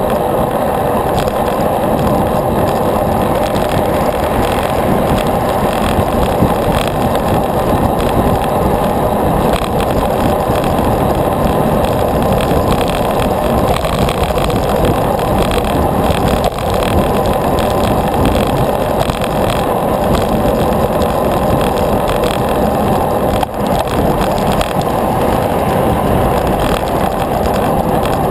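Steady rushing noise of a bicycle being ridden: wind over the microphone and tyres on the road.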